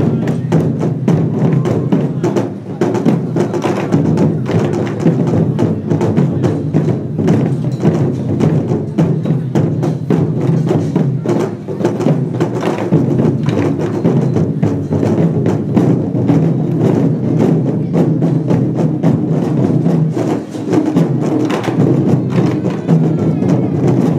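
Lion dance percussion ensemble of drum, gongs and cymbals playing a fast, steady beat.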